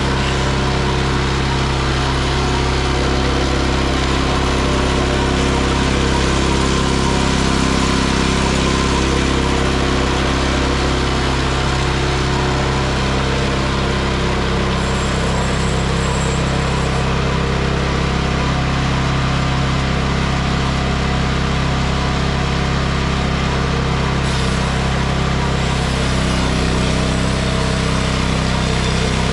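Engine of a Frontier OS23 bandsaw sawmill running steadily at a constant speed, its note shifting slightly near the end.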